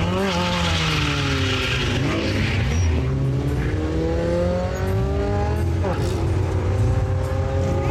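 Two drag-racing cars, a Ford Mustang GT and a Honda Civic, accelerating hard off the line. The engines rev up through the gears, with a drop in pitch at a gear shift about six seconds in before they climb again.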